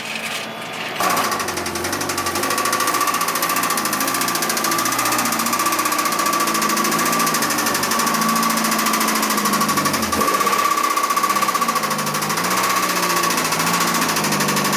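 An engine running with a rapid, even knocking clatter and a steady whine, starting about a second in.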